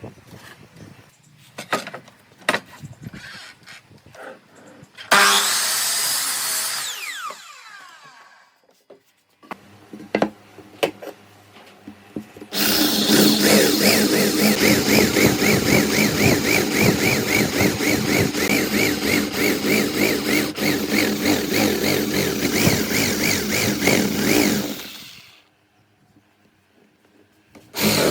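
A few knocks of wood and tools being handled. Then a handheld power tool runs briefly and spins down with a falling pitch. After a few more knocks it runs loud and steady for about twelve seconds with a fast pulsing texture, then stops.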